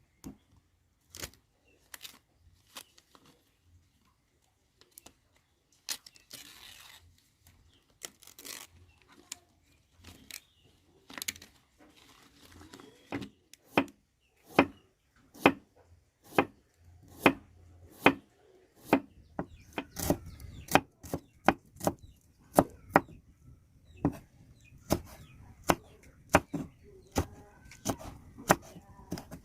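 Kitchen knife chopping on a cutting board: scattered single strokes at first, then settling into a steady rhythm of about one and a half strokes a second in the second half.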